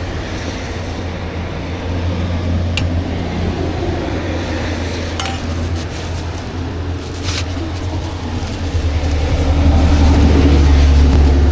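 Food-stall sounds over a steady low rumble that grows louder in the last few seconds, with a few sharp clinks of utensils or dishes.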